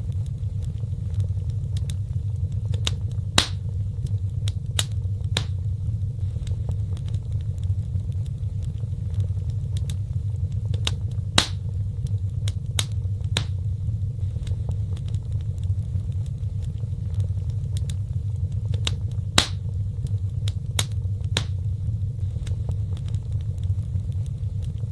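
Wood fire burning in a fireplace: a steady low rumble of the flames with scattered sharp crackles and pops, the three loudest pops about eight seconds apart.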